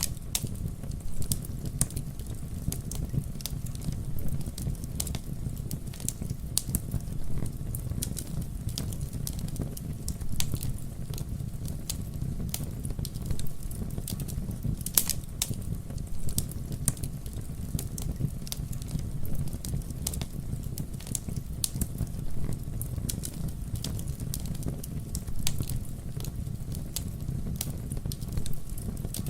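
Campfire burning, with a steady low rumble of flames under a constant scatter of sharp pops and crackles from the wood.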